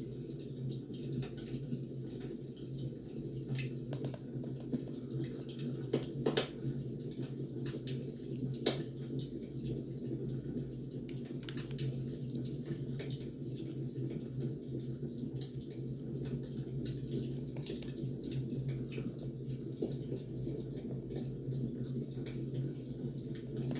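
Firewood burning, with scattered sharp crackles and pops over a steady low background.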